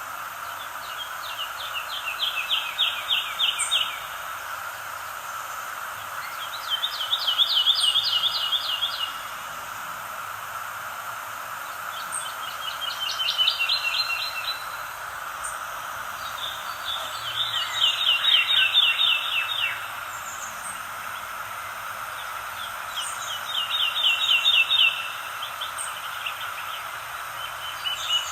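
A bird sings a rapid trilled phrase of two to three seconds, repeated about every five seconds. Under it runs a steady, even chorus of calling animals, with faint short high notes between the phrases.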